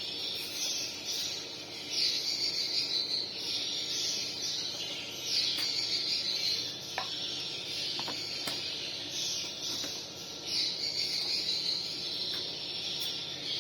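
Recorded swiftlet calls played through a Betavo ZX 2208T swiftlet-house amplifier: high, buzzy chirping phrases repeating about every one and a half to two seconds.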